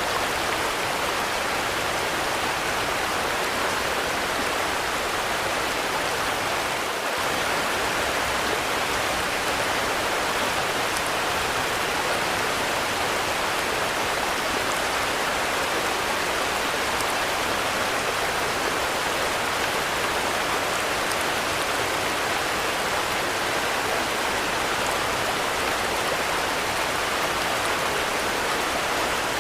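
Steady rain falling, an even hiss of drops with no thunder, dipping briefly about seven seconds in.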